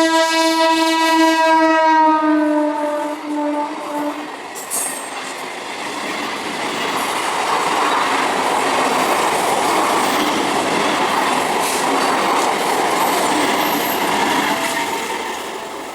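Train horn sounding one long note that drops slightly in pitch and stops about four seconds in. The train then runs past on the rails with a steady rumble and clatter of wheels, fading near the end.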